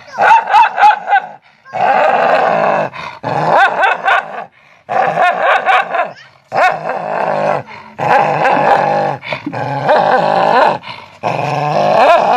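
A dog vocalizing in a string of long, wavering, pitched grumbles and howls, about seven in a row with short breaks between them, as if talking back.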